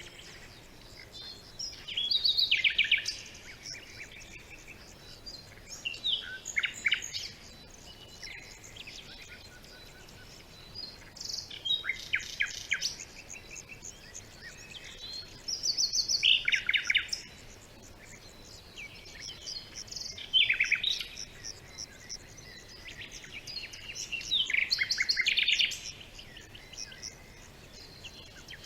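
Songbirds singing: short bursts of fast trilled song about every four to five seconds, with fainter chirps in between.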